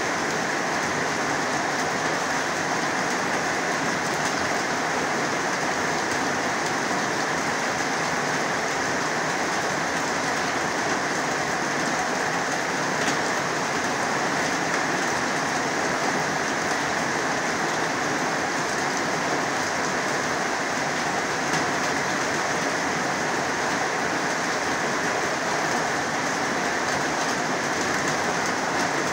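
Heavy rain pouring down steadily, an even, unbroken hiss with no pauses or changes.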